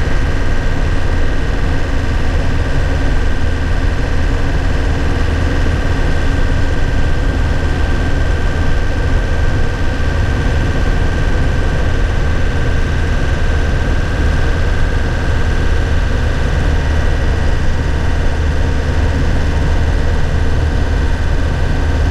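A 2001 Nissan Cabstar light truck driving at a steady speed, heard from inside the cab. Its engine and road noise make a steady low drone, with a thin high whine that drifts slightly lower.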